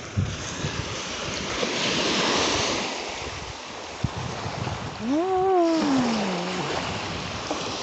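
Surf washing on the beach with wind on the microphone, the wash swelling about two seconds in. About five seconds in, a short wordless vocal sound rises and then slides down in pitch.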